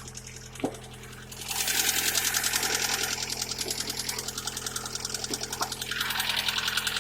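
Lada 21126 16-valve engine running cold with a rapid, even clatter of knocking hydraulic lifters, which gets much louder about a second and a half in. The knock is still there after an oil-system flush.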